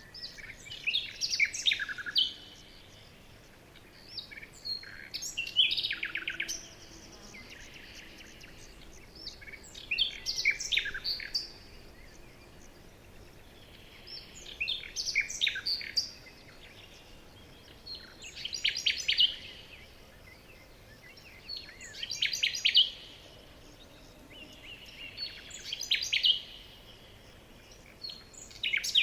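A songbird singing short phrases of quick chirps and trills, repeated about every four seconds over a faint steady hiss.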